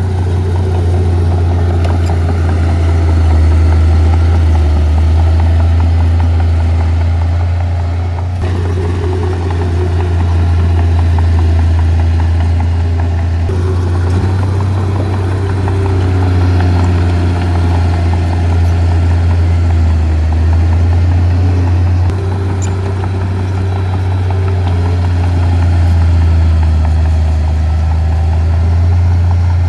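Heavy diesel engines of earth-moving machinery running steadily with a strong low drone. The sound changes abruptly about 8, 13 and 22 seconds in.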